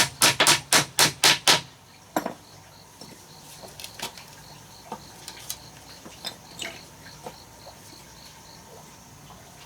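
A quick run of about seven sharp knocks in the first second and a half, and one more shortly after, then a cricket chirping steadily in fast even pulses, with scattered light clicks.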